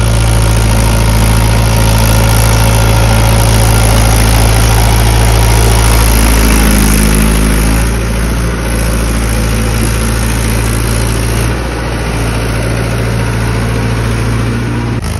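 Tractor's diesel engine running loud and steady, its note easing slightly about eight seconds in and again near twelve seconds.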